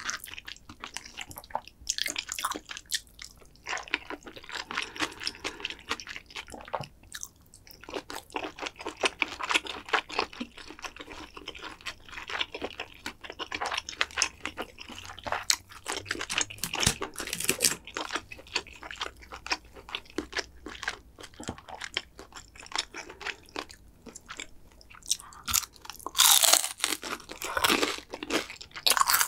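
Close-miked eating sounds: continuous wet chewing with crisp crackles and crunches of fried food. A loud crisp crunch comes near the end as a sauce-dipped fried piece is bitten.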